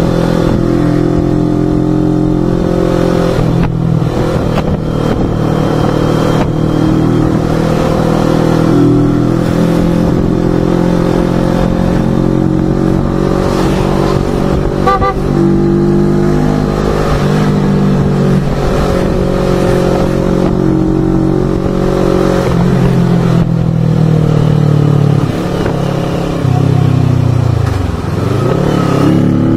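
CFMoto GT400's parallel-twin engine running at cruising speed, its note shifting up and down with the throttle. Near the end the pitch dips sharply and climbs back as the bike slows and pulls away again. Wind rumble on the microphone runs underneath.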